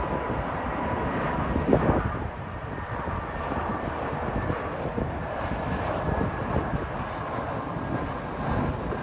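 Airbus A319 jet airliner passing on approach: a steady engine noise with a faint whine running through it.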